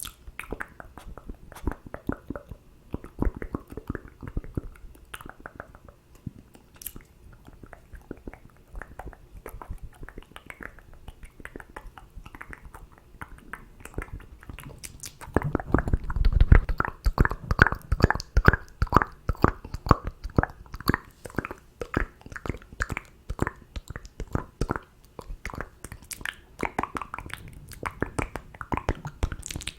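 Close-miked ASMR mouth sounds: wet clicks, pops and smacking of lips and tongue, in quick irregular runs that grow louder and denser about halfway through.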